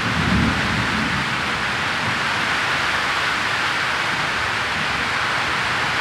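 Heavy rain falling steadily in a downpour, an even hiss. The low rumble of thunder dies away in the first second.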